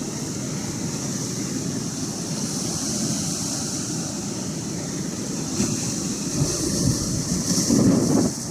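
Atlantic surf washing steadily, with wind buffeting the microphone; the wind gusts grow stronger over the last few seconds.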